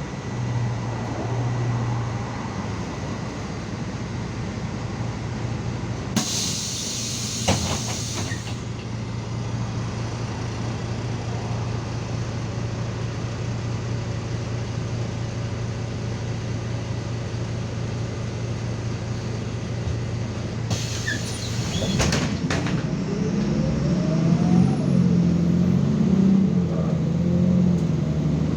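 MAZ 216 city bus engine idling steadily, with two short hisses of released air from the bus's air system, about six seconds in and again about twenty-one seconds in. After the second hiss the engine rises in pitch as the bus moves off.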